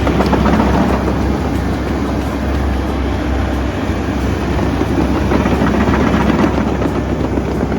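Hydraulic excavator's diesel engine running steadily under work, with slight swells in its drone.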